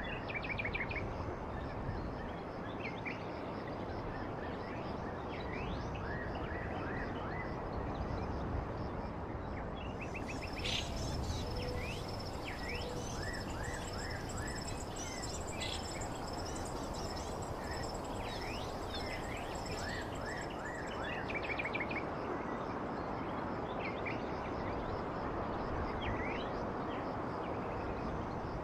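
Many small birds chirping over a steady outdoor background hiss. A thin, high steady buzzing tone joins about ten seconds in and fades about ten seconds later.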